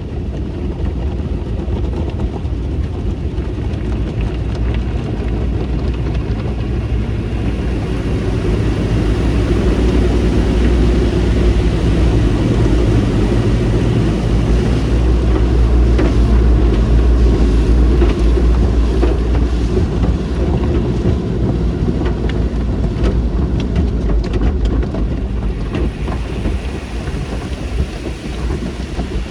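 Automatic car wash tunnel equipment running: a loud, steady rush and low rumble that swells in the middle and eases near the end, with scattered clicks and knocks partway through.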